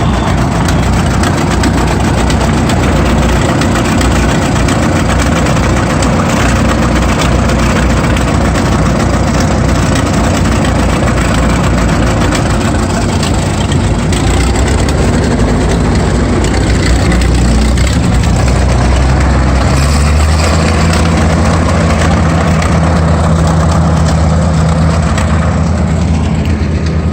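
Tractor engine running steadily at idle. About twenty seconds in, a deeper, stronger engine hum takes over.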